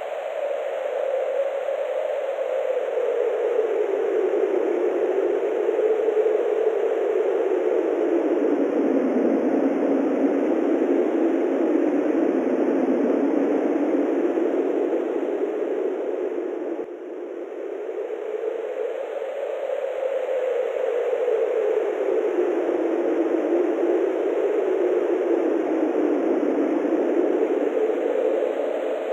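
Wind blowing: a steady rushing noise that slowly falls in pitch and rises again in long swells, with a brief lull about seventeen seconds in.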